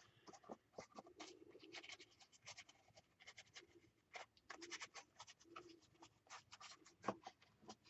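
Faint, quick scratching strokes of colour being worked onto a paper page, many short strokes in a row with a slightly louder one near the end.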